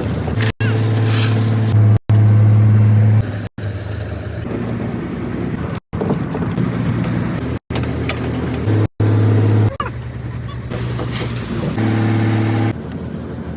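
A fishing trawler's engine running with a steady low hum, in a string of short clips cut together every second or two, so the sound breaks off abruptly and comes back at different strengths.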